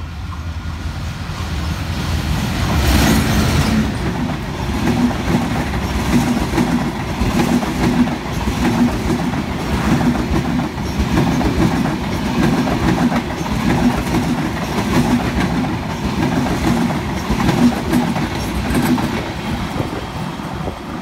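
Diesel-hauled express passenger train running through a station without stopping: the locomotive passes close about three seconds in, then the coaches go by with a steady, rhythmic clickety-clack of wheels over the rail joints, easing slightly near the end as the last coach passes.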